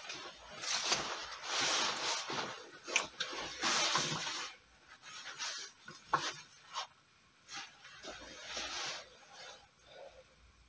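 Rough scraping in sandy earth: a few long strokes of one to two seconds each, with short sharp knocks between them.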